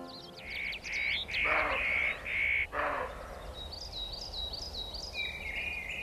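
Wild birds calling: a run of short calls in the first three seconds, with two harsher, noisier calls among them, then a quick series of about six high, rising-and-falling chirps around four to five seconds in.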